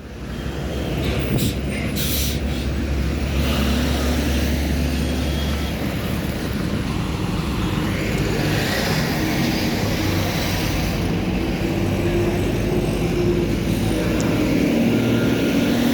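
Truck engine running with road and traffic noise while driving on a highway; the sound builds over the first second, then stays steady.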